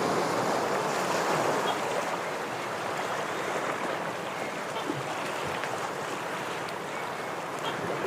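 Ocean surf washing against shoreline rocks: a continuous rush of water that is a little fuller in the first second or two, then eases slightly.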